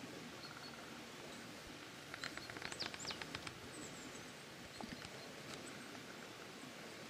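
Faint, steady outdoor background hiss. About two seconds in, a small bird gives a rapid chattering call lasting about a second and a half, with a few faint high chirps a little later.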